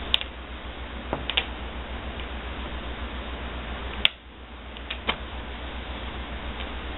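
A window blind's draw cord knocked by a cat's swishing tail: about half a dozen light, sharp clicks and taps at irregular moments, the sharpest about four seconds in, over a steady hiss and low hum.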